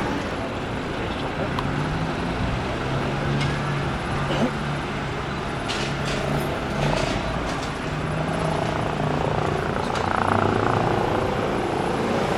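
Helicopter running in the distance: a steady hum with a low drone, a little louder near the end.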